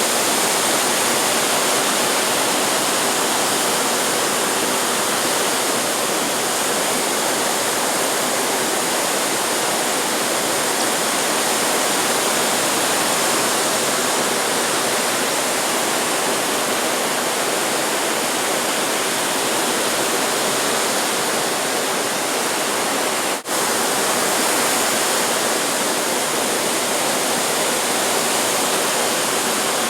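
Steady, even wash of ocean surf heard from the beach, with no distinct wave crashes. The sound briefly drops out about 23 seconds in.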